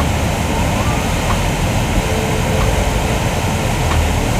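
Niagara Falls tour boat under way, a loud, steady rumbling rush from the moving boat and its water.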